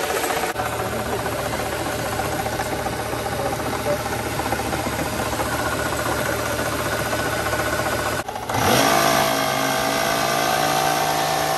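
Mercedes-Benz W220 S600's twin-turbo V12 running steadily. After a break about eight seconds in, a steady higher whine rides over the engine note.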